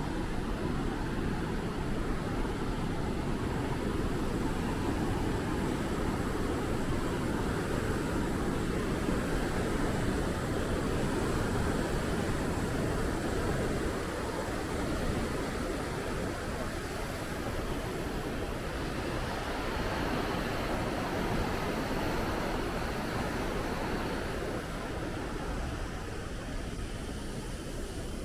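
Naena Falls waterfall: a steady, deep rush of falling water, even throughout and easing slightly in the second half.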